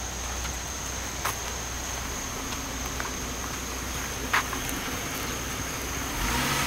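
Insects chirring in one steady high tone over a steady hiss, with a couple of faint clicks. Near the end a car engine comes in.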